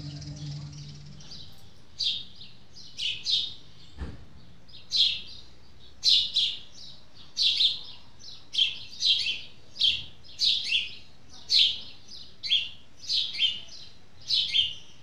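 Birds chirping: short, high calls repeated about once or twice a second. The last guitar note fades out at the start, and there is a single sharp click about four seconds in.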